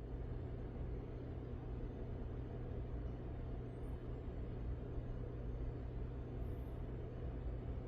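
Small rotary tool running steadily with a low, even hum while it grinds down the base of a diecast car.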